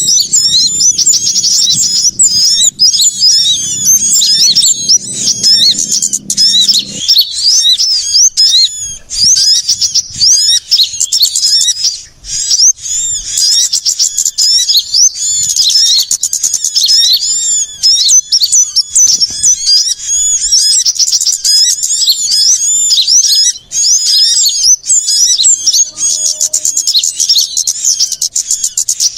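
Dense, loud chorus of many small birds chirping and twittering at once, quick high rising and falling notes with no break: a bird-lure (pikat) recording for calling small birds such as sunbirds down to a trap. A faint low hum underneath stops about seven seconds in.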